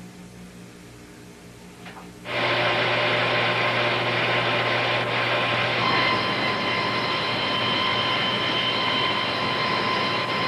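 A low electrical hum, then about two seconds in a power saw's steady running noise starts suddenly and carries on. This is the strip-grooving machine, a wide saw with angled teeth, cutting the groove into the edge of a cedar canoe strip as it is fed through.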